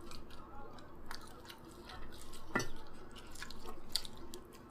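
Close-miked chewing of Indian curry and naan, with small wet mouth clicks and one sharper click a little past halfway.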